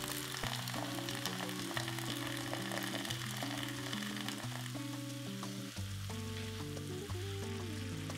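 Minced beef and chopped vegetables in a hot wok sizzling and crackling as beer is poured in, the sizzle easing after about five seconds as the liquid comes to a simmer. Background music plays throughout.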